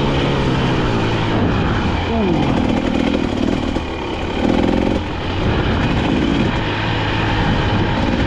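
KTM dirt bike engine running under way, the engine note rising and falling with the throttle; the revs drop about two seconds in.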